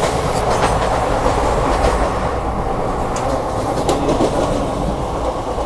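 Passenger train coach running at speed, heard from inside: a steady rumble of wheels on the track, with a few faint clicks over rail joints.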